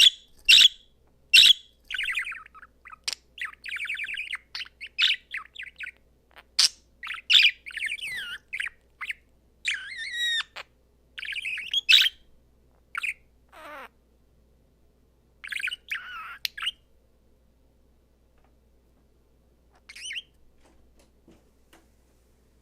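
Male budgerigar chirping and warbling: a few sharp chirps, then a long run of fast chattering song with squawks. It falls quiet about three-quarters through, with one more short call near the end.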